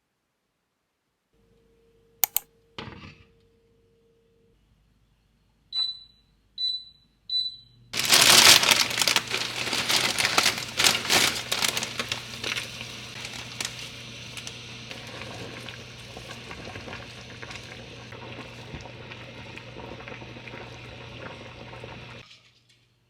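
A click, then three short electronic beeps from a kitchen appliance. A loud hissing rush over a low steady hum follows for about fourteen seconds, loudest at first, then steady, and stops suddenly.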